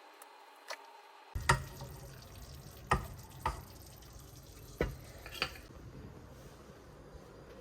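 Kitchen sounds: about five sharp clinks and knocks of utensils against dishes or cookware, irregularly spaced, over a low steady background hiss.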